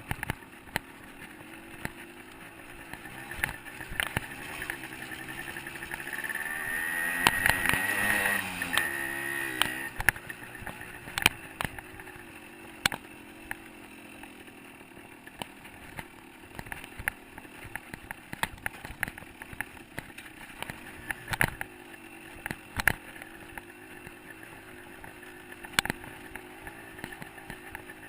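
A 125 cc two-stroke dirt bike engine running along a trail, its pitch wavering with the throttle. About six seconds in it revs up, loudest around eight seconds, then eases back. Frequent sharp clicks and knocks run alongside the engine.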